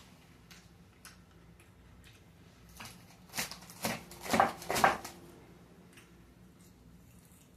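Crunching as a bite of Caesar salad with croutons and lettuce is chewed: a handful of loud, crackly crunches about three to five seconds in, with faint ticks before them.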